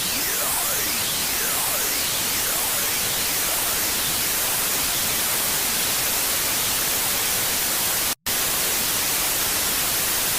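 Harsh noise: loud, steady static hiss, with tones sweeping up and down across each other in the first few seconds. The noise cuts out for an instant about eight seconds in.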